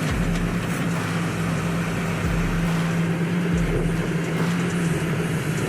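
A heavy vehicle's engine running under steady load, a constant low hum with a dense rumble over it.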